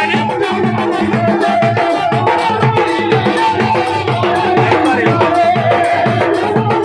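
Dhol drumming in a steady, driving rhythm, with a sustained melody line wavering above the beat: Indian folk music.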